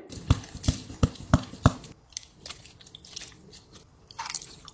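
Close-up mouth sounds of a person eating ramen noodles: a quick run of five wet smacking chews in the first two seconds, then softer, scattered chewing clicks.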